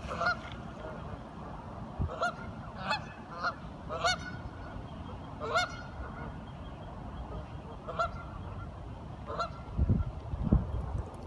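Waterfowl calling: about eight short, pitched honking calls at irregular intervals over a steady background hiss, with low rumbling bursts near the end.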